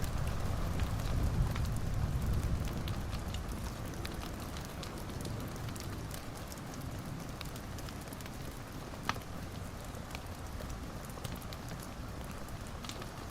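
Wood fire burning in a fireplace: a steady hiss and low rumble of the flames with scattered small crackles, and one sharper pop about nine seconds in.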